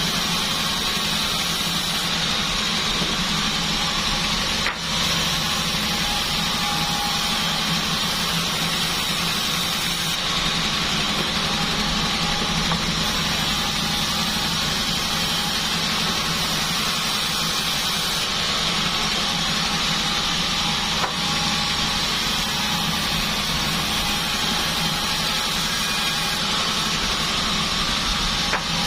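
Large bandsaw sawmill running steadily, with a steady high whine from the blade over the machine's low drone and a few brief knocks.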